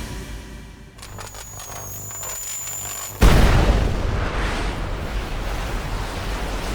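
Anime battle sound effects: a high steady whine, then about three seconds in a sudden loud explosion whose rumble and hiss carry on afterwards.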